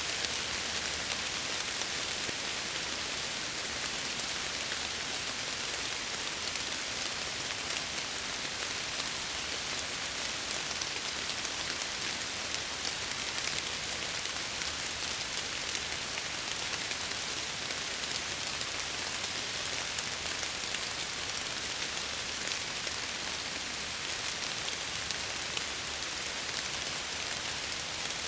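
Steady rain falling on window glass, a constant hiss with many fine scattered drop ticks.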